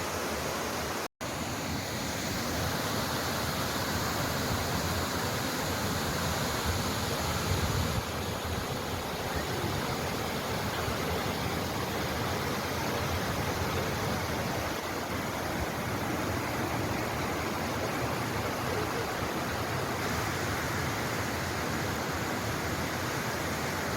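A small waterfall's water rushing steadily, with a split-second dropout about a second in.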